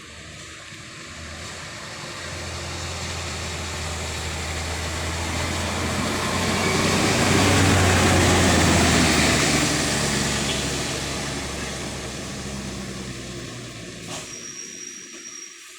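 A heavy dump truck driving past on a wet road: its diesel engine running under a wide hiss of tyres on wet tarmac. It grows louder to a peak about halfway through, then fades away. Near the end there is a short click and a brief high-pitched tone.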